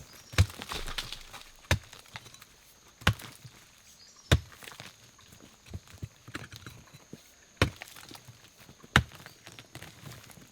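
Wood being chopped with a blade: a series of sharp chops roughly every second and a half, with a pause of about three seconds in the middle.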